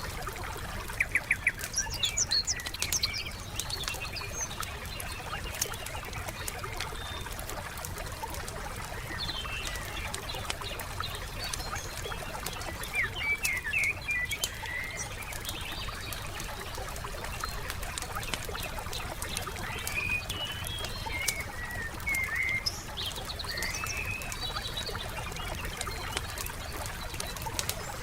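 Wood fire crackling with many small sharp pops, while forest songbirds chirp and call off and on over it.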